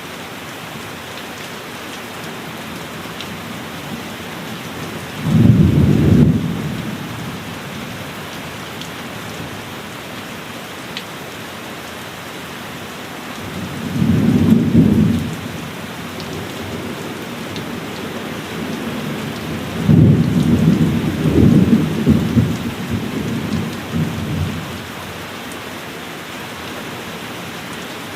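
Steady heavy rain with three rolls of thunder: one about five seconds in, another around fourteen seconds, and a longer, rolling one from about twenty to twenty-four seconds.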